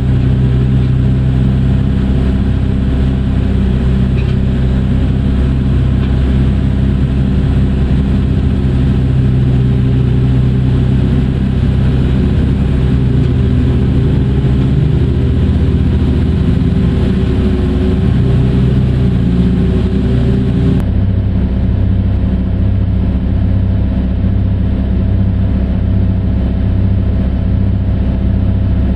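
Large diesel engine of heavy mining machinery running steadily. The engine sound changes abruptly about two-thirds of the way through, settling into a regular low pulsing.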